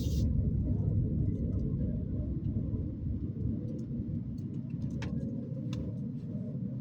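Low road and engine rumble inside a Toyota Axio's cabin on the move, easing slightly after about two seconds, with a couple of faint ticks near the end.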